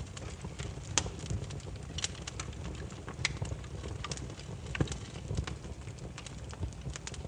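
Burning firewood crackling: irregular sharp pops and snaps over a steady low rumble, with the loudest pops about one second in and just before five seconds.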